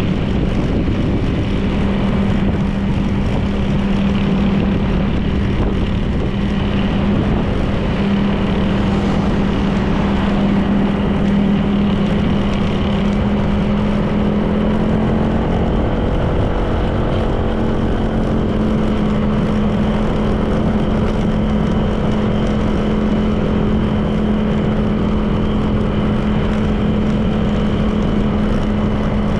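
Honda PCX 160 scooter's single-cylinder engine running at a steady cruise, with wind and road noise. The engine pitch rises slightly about halfway through and holds there.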